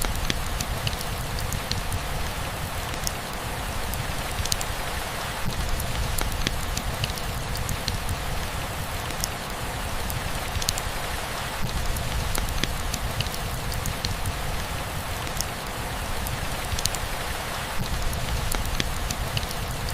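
Steady rainfall with scattered sharp drop ticks over a continuous low rumble.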